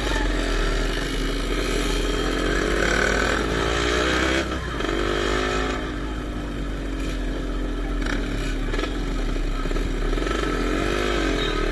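Motocross dirt bikes running on the track, their engines revving up and down in pitch as they accelerate and shift.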